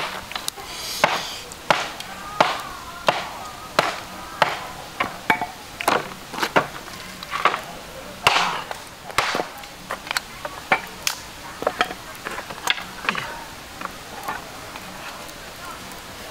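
Machete chopping wood: a long run of sharp chopping strikes, roughly two a second, that thins out and stops after about thirteen seconds.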